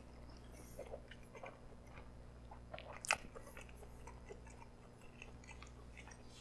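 Faint closed-mouth chewing of a mouthful of pretzel-wrapped hot dog: scattered soft clicks, with one sharper click about three seconds in.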